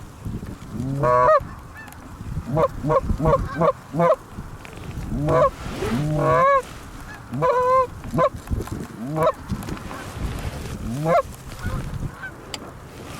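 Canada goose honks and clucks: a run of short calls, a quick burst of clucks about three seconds in, then longer, drawn-out honks.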